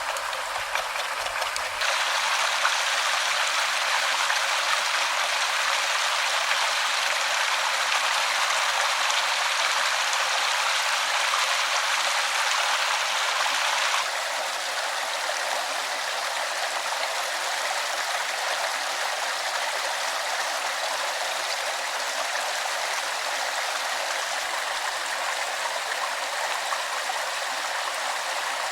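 Stream water running steadily, a continuous rush with no distinct splashes. It gets louder about two seconds in and drops back a little around halfway.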